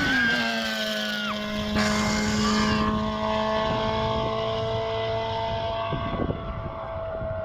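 Classic racing vehicle's engine passing at high, steady revs, its pitch dropping as it goes by, then fading as it pulls away up the hill.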